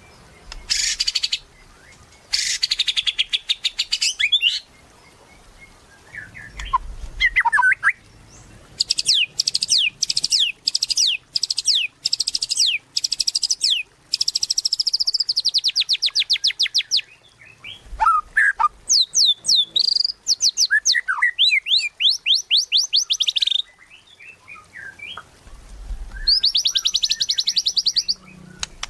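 White-rumped shama singing in full song: bursts of fast repeated high notes and trills, broken by short rising and falling notes between phrases.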